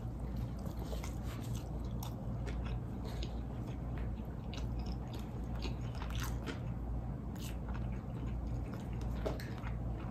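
Close-miked biting and chewing of a fried chicken sandwich: wet chewing with many small crunches and mouth clicks scattered throughout. A steady low hum runs underneath.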